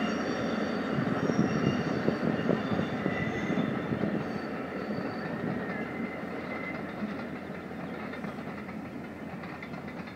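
Steam train running along the line, its wheels and carriages rattling with a clickety-clack, loudest in the first few seconds and then slowly fading as it moves away.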